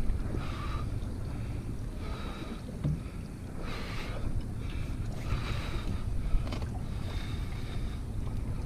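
Wind rumbling on the microphone and water around the boat, with short whirring bursts about every second and a half from a fishing reel being cranked in spurts while fighting a strong fish.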